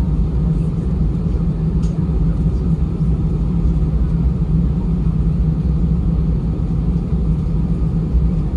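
Steady low rumble inside the cabin of an Airbus A320 taxiing, its CFM56-5B engines running at low thrust as the airliner rolls along the taxiway.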